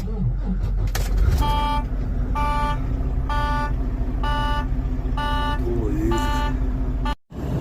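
An electronic warning chime beeping repeatedly, about seven short beeps a little under a second apart starting about a second and a half in, over the steady low rumble of a car driving.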